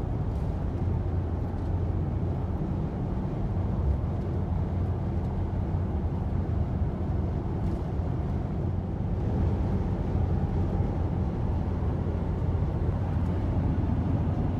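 Steady rumble of a car driving along a highway: tyre and engine noise.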